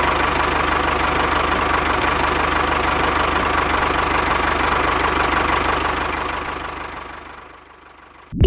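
Small engine of a homemade mini tractor running steadily with a fast, even chugging, dying away over the last two seconds.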